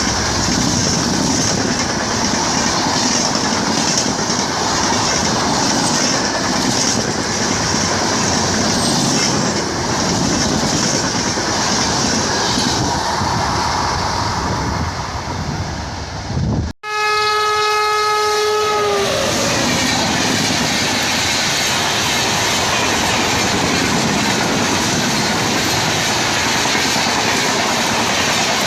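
Indian Railways express train running with a steady rumble and wheel clatter over the rails. About 17 seconds in, the noise breaks off suddenly and the locomotive's horn sounds once for about two seconds, after which the rumble and clatter carry on.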